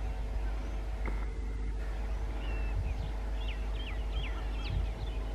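An Indian Railways electric locomotive and its train approach, heard as a steady low rumble with a faint hum. Birds chirp over it, with a quick run of chirps from about two and a half to four and a half seconds in.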